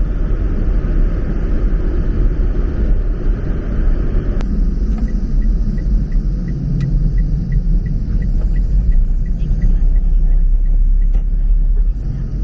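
Steady road and engine rumble of a moving kei truck, heard from inside the cab. From about the middle, a light ticking, about three ticks a second, runs for several seconds, like a turn-signal indicator.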